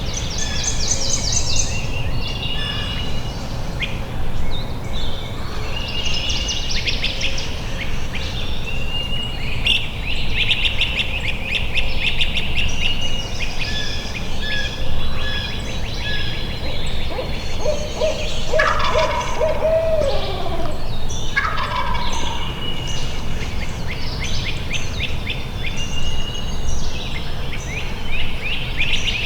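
A wild turkey gobbler gobbles, a rapid, falling, rattling call about two-thirds of the way through. Many songbirds sing throughout.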